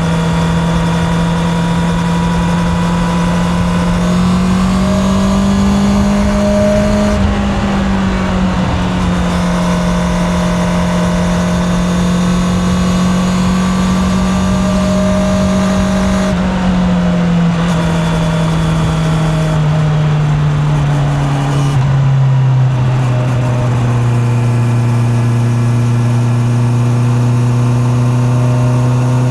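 Honda CB650R's inline-four engine running steadily under way, heard from a microphone in the rider's pocket. Its note rises slightly a few seconds in, then drops in two steps past the middle and settles lower.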